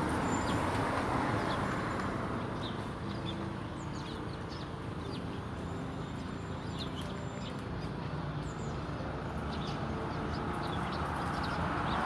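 A flock of sparrows chirping in short, scattered notes over a steady low rumble of background noise.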